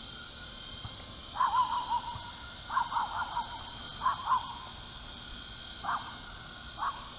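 Five bouts of short, wavering animal calls, some in quick clusters, over a steady high whine from the WLToys V915 RC helicopter's electric motor and rotors.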